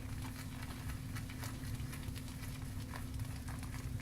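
Shaving brush being swirled with light pressure over the top of a vegan shaving soap puck to load it: a soft, irregular patter of small scratchy bristle ticks.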